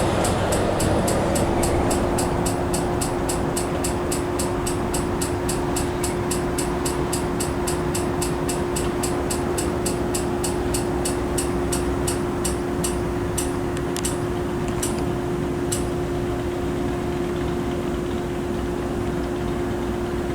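Freight train wheels clicking over rail joints at about four clicks a second, slowing and stopping about 16 seconds in as the intermodal train rolls to a halt. A steady low two-note hum runs beneath.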